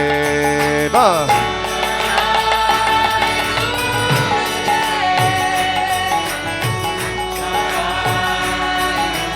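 Kirtan music: voices chanting the mantra response over sustained chords. A hand drum's bass strokes slide down in pitch, the first and strongest about a second in, then every second or so.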